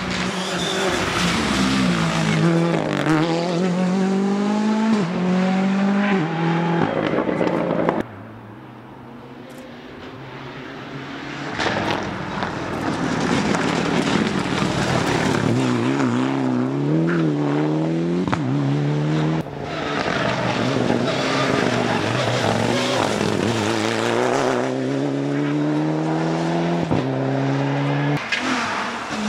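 Rally car engines at full throttle, revving up and falling back again and again through gear changes as the cars drive a special stage. About eight seconds in the engine sound drops away suddenly, then another car's engine builds up over a few seconds and revs hard again.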